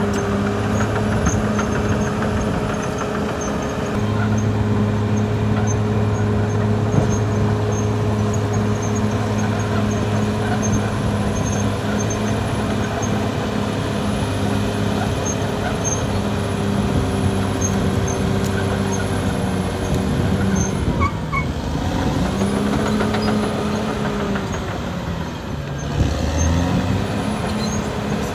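Caterpillar D6R XL bulldozer's diesel engine running steadily while working. Its pitch dips and recovers about twenty seconds in, and again near the end, as the engine takes load.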